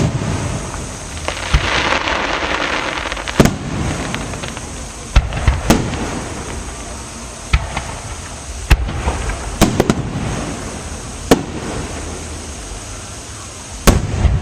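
Aerial fireworks display: about a dozen shell bursts going off at irregular intervals, with a stretch of dense crackling about a second or two in.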